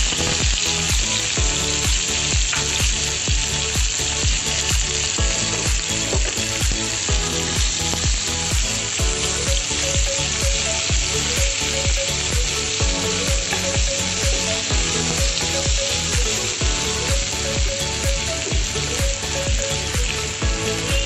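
Sliced onions sizzling steadily as they fry in hot oil in a pan, turned now and then with a spatula. Background music with a steady beat plays underneath.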